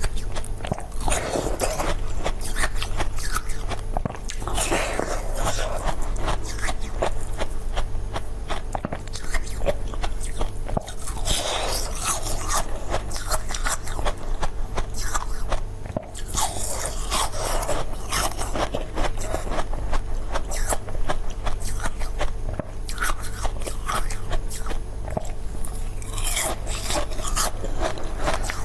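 Close-miked eating sounds of jelly and frozen sweets: repeated bites and chewing, full of crisp clicks and crunches, with wetter sticky mouth sounds every few seconds.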